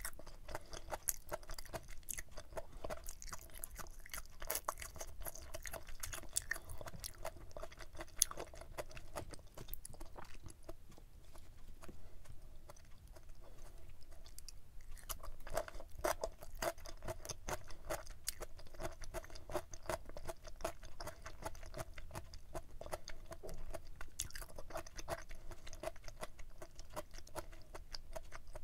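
A person chewing stir-fried pork intestines close to the microphone: a rapid run of small mouth clicks, quieter for a few seconds about halfway.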